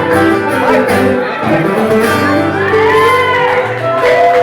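Live acoustic music with guitar playing and a melody gliding above it.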